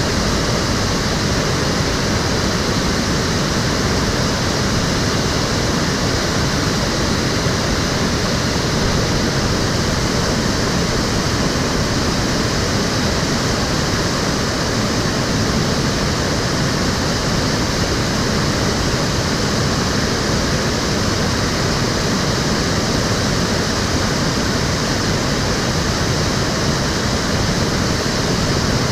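Stream water flowing steadily: a continuous, even rush of moving water with no breaks or changes.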